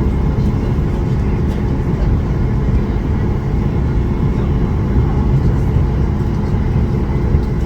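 Steady cabin rumble of a Boeing 737 MAX 8, its CFM LEAP-1B engines idling as the jet taxis after landing.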